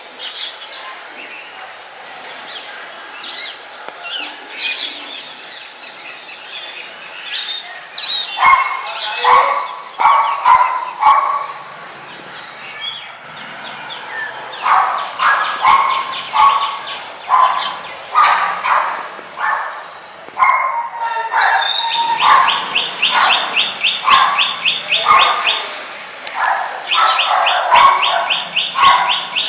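Several birds chirping and calling at once, the calls growing louder about a quarter of the way in. Later a bird repeats one rapid note over and over, twice.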